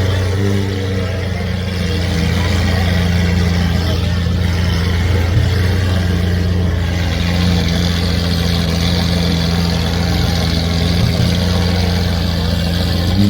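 A car engine idling steadily at low revs, a constant low hum that holds the same pitch throughout, over a background of crowd noise.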